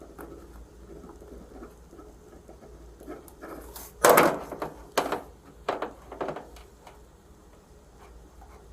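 A few short knocks and clicks over faint room noise, the loudest about four seconds in, followed by three smaller ones within the next two and a half seconds.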